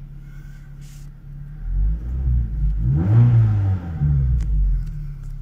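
Ford Fiesta ST's four-cylinder petrol engine idling, then revved once to around 3,000 rpm about two seconds in, its pitch rising and falling back toward idle.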